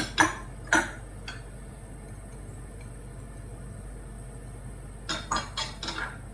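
A cooking utensil clinking and knocking against a pan as vegetables are stirred: a few sharp clinks in the first second or so, then a quick run of four or five near the end.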